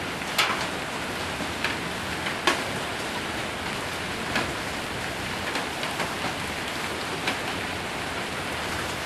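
Hail and heavy rain falling on a roof: a steady hiss of rain with a sharp single tap every second or two as a hailstone strikes.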